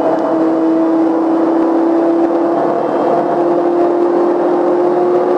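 BMW car under way: a steady engine hum over road noise, the pitch drifting slightly.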